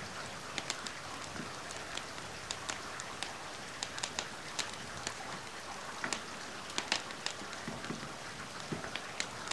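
Steady rain hiss mixed with a wood fire crackling, with scattered sharp pops and clicks a few times a second.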